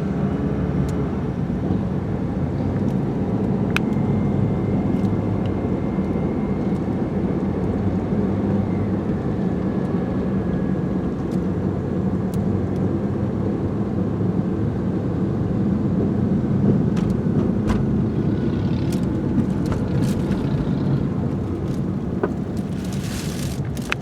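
Steady low rumble of a motor vehicle's engine running, with a short rush of hiss near the end.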